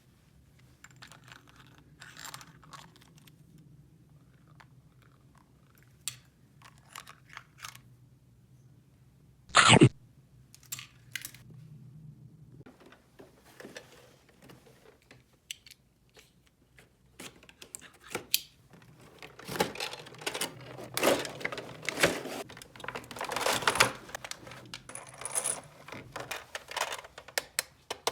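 Small plastic toy pieces being handled, with clicks, taps and light rustling that grow busier in the last third. One loud, sharp sound comes about ten seconds in.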